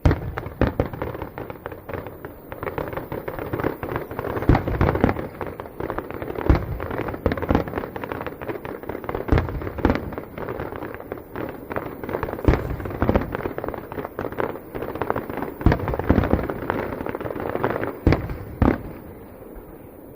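Festival fireworks finale: a dense barrage of bangs and crackling bursts in quick succession. It starts abruptly, with the loudest reports coming every second or so, and dies away near the end.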